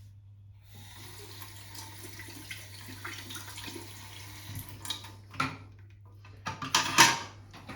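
Water running through the shower with a steady hiss, and a few sharp clicks and knocks near the end, the loudest about seven seconds in.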